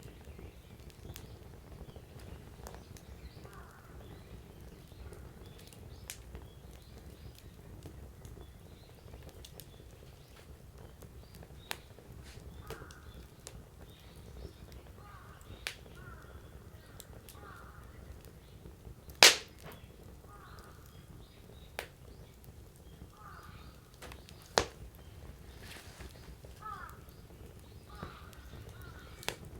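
Burning firewood crackling, with scattered sharp pops. The loudest pop comes about two-thirds of the way through, and another strong one follows a few seconds later.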